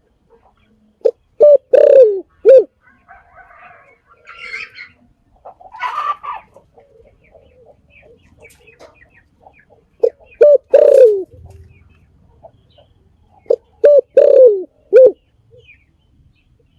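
Spotted dove cooing: three phrases, each a few short low coos with one longer falling note, repeated about every four to nine seconds. Fainter, higher calls of other birds sound between the phrases.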